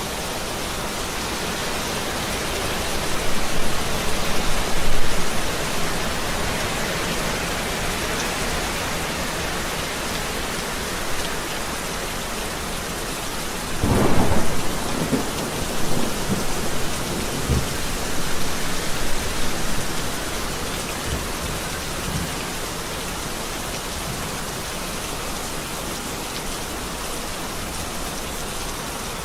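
Steady rain falling, with thunder: a rumble swells a few seconds in, then a sharp thunderclap about halfway through rolls on in several rumbles for about six seconds.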